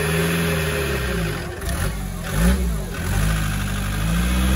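Off-road 4x4's engine revving up and down, its pitch swelling and falling several times, with a quick sharp blip about two and a half seconds in.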